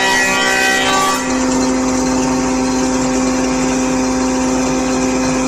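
A power tool's motor running steadily at a constant pitch, with no change in speed.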